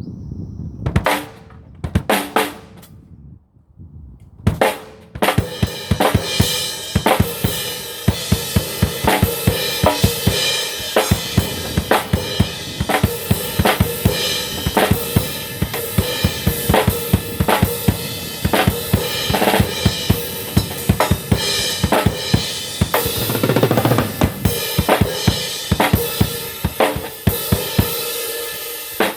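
Drums struck a few times, then settling about five seconds in into a quick, even beat, with a held pitched tone sounding underneath.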